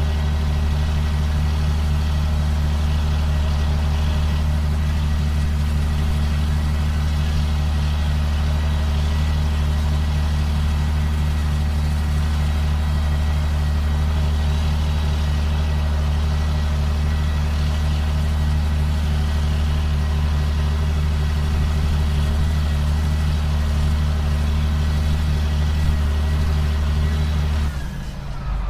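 Steady, unchanging drone of a 2005 John Deere sprayer's diesel engine running while the machine works the field. The low drone drops away abruptly near the end.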